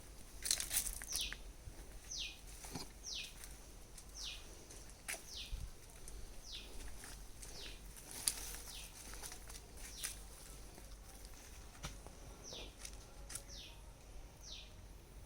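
A bird calling over and over, a short high whistle that falls in pitch each time, about once a second, with scattered faint clicks and knocks.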